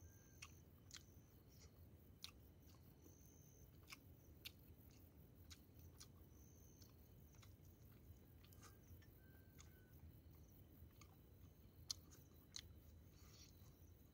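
Faint chewing and mouth clicks of a person eating, a scattering of soft ticks with one sharper click near the end.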